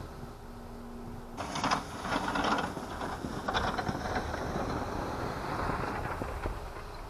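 A plow car at work: its engine running under load while the plow pushes and scrapes through snow, a rough crackling noise that starts suddenly about a second and a half in, after a low steady hum.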